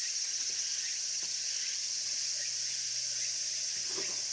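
Outdoor insect chorus: a steady, unbroken high-pitched buzzing drone of summer insects, with a few faint ticks near the end.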